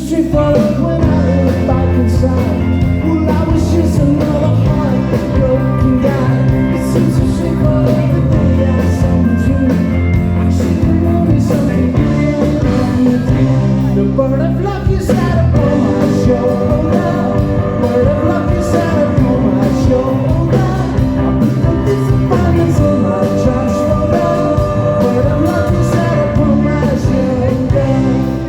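Rock band playing live: a singer over electric guitars, bass and drums, with a steady beat.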